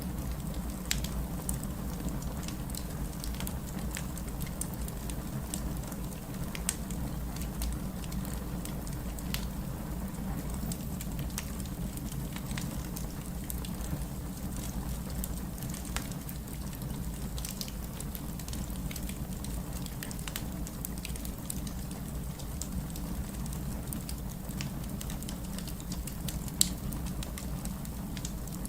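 Wood fire burning in a fireplace: a steady low rumble with scattered small crackles and pops, and one sharper snap near the end.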